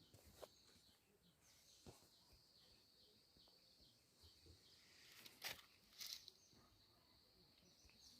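Near silence: faint outdoor ambience with a thin, high, steady chirring and a few soft clicks.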